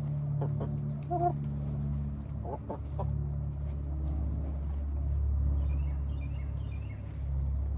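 Chickens clucking with a few short calls in the first three seconds and some small high chirps later, over a steady low hum.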